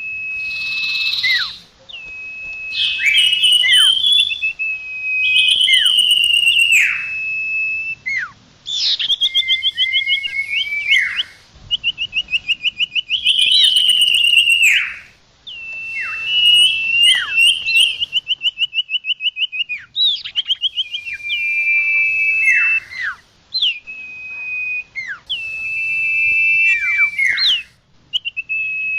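Common iora (cipoh, sirtu) singing a lure song: long, clear whistles held at one pitch, broken by sharp downward-sweeping notes and quick rattling trills, phrase after phrase with short pauses.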